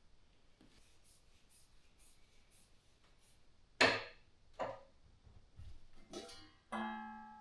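Metal cookware being handled: two sharp knocks, a short scrape, then a ringing metallic clang near the end that dies away over about a second.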